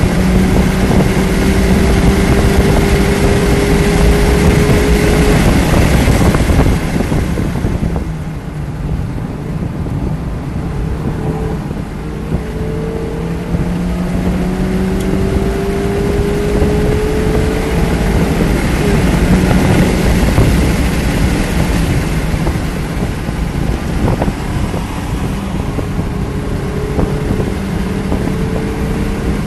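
A 2019 Mazda Miata MX-5's 2.0-litre four-cylinder engine running hard on track. Its note climbs slowly in three long pulls under acceleration, with easings between them. A heavy rush of wind noise runs over it, loudest in the first seven seconds or so.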